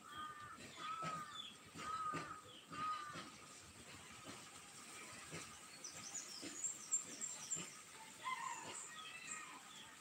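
Bird calls: four short arched calls about a second apart, then a run of quick high chirps and a few more calls near the end.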